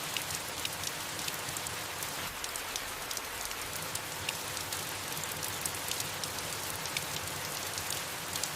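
Soft, steady rain falling on leaves: an even hiss with many separate drops ticking through it.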